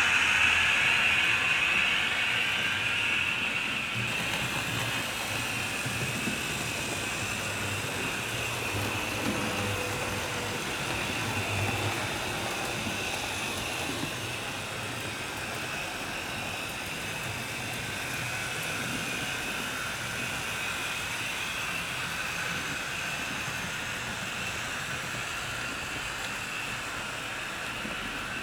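HO scale model train running on the layout, its motor and wheels on the track making a steady whirring hiss. It is loudest at first and settles to a lower steady level after a few seconds.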